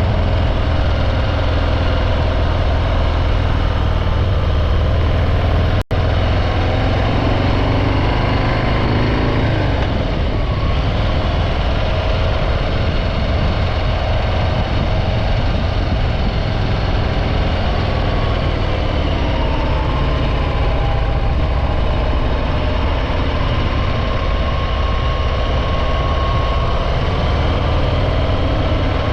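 Harley-Davidson Breakout 114's Milwaukee-Eight V-twin running steadily through its stock exhaust, with a few small shifts in pitch. The sound cuts out for an instant about six seconds in.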